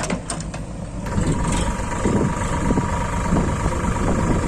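Heavy diesel engine running, growing louder about a second in and then holding steady, with a few sharp clicks near the start.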